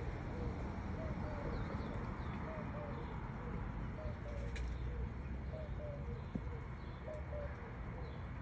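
A bird cooing over and over in short, low notes, two or three a second. A few faint high chirps come about two seconds in, over a steady low rumble.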